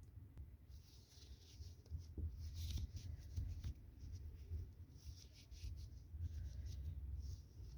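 Faint, irregular scratchy rustling of yarn drawn through stitches on a crochet hook as double crochet stitches are worked, over a low steady hum.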